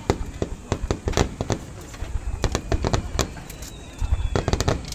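Star mine fireworks barrage: many sharp bangs and crackles fire in rapid succession. There is a thinner stretch a couple of seconds in, and the bangs come quickly again near the end.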